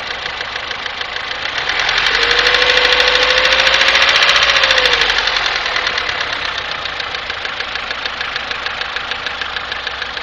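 Daewoo Nexia's G15MF 1.5-litre four-cylinder engine running with a steady rhythmic knock from inside the engine. About two seconds in it is revved up briefly, getting louder with a whine that rises a little and then falls, before it settles back to idle with the knock still ticking.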